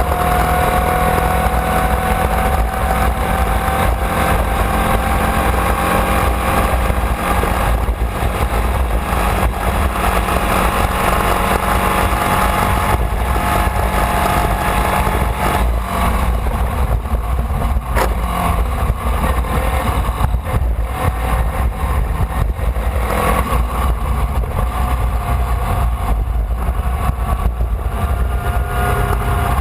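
Formula Vee's air-cooled Volkswagen flat-four engine running under way, heard onboard with heavy low wind rumble on the microphone. The engine note slowly falls in pitch over the first several seconds, then rises and falls with the throttle.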